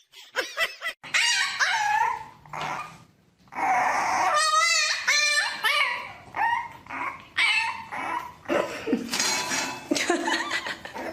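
A dog barking, yipping and whining in a run of short pitched calls, with a longer wavering cry about four seconds in.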